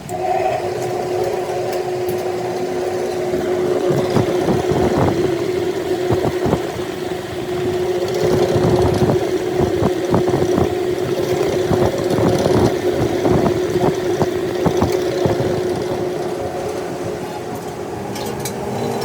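A machine motor running at a steady pitch, with irregular scraping and chatter over it, as of a tool cutting metal while a flywheel is faced.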